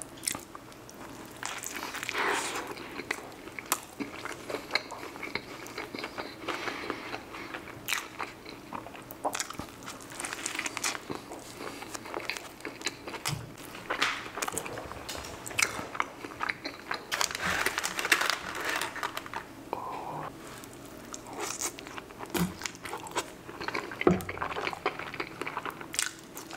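Close-miked chewing and biting of fast food (a chicken sandwich and cheese-sauce loaded fries), with many sharp, irregular wet mouth clicks.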